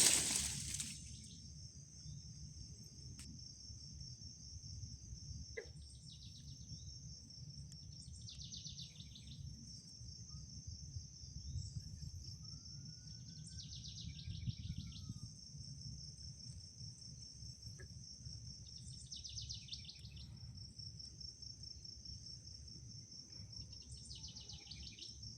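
Insects trilling steadily at a high pitch, while a second insect call comes in pulsing bursts about a second long, every five or six seconds. A faint single bird note sounds about halfway through, over a low background rumble.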